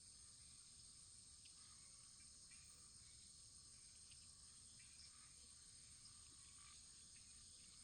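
Faint wood fire burning, with small scattered crackles over a steady high hiss and a low rumble.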